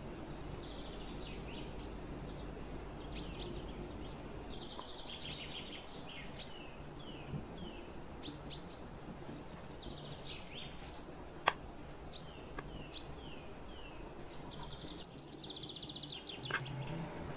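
Small birds chirping in the background, with repeated short calls and runs of quick descending chirp notes throughout. A single sharp click sounds about eleven and a half seconds in.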